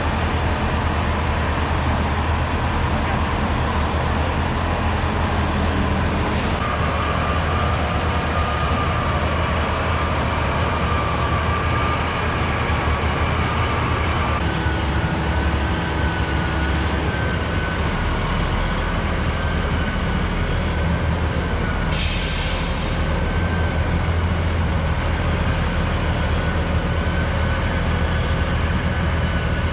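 Heavy diesel truck engines running steadily, with a thin whine that steps up in pitch about halfway through and a brief hiss a little over twenty seconds in.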